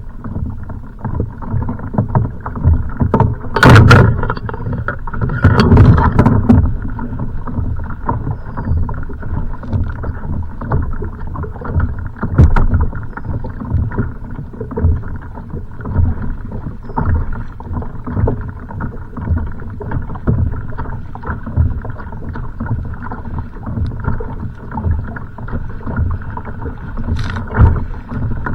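Kayak on choppy, wind-driven water: waves slapping and sloshing against the hull, with wind buffeting the microphone as a continuous uneven rumble. Louder knocks or splashes stand out about 4 and 6 seconds in, and again briefly near the end.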